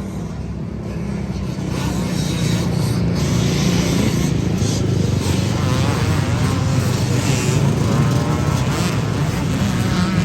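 An engine running with a steady low drone, growing louder over the first two seconds and then holding.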